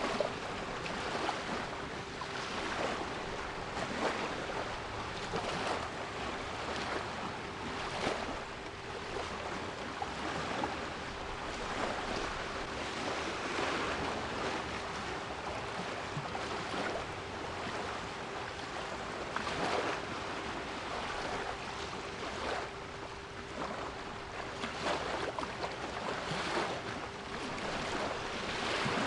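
Sea waves washing in uneven surges, with a quieter, steady 396 Hz pure tone held underneath.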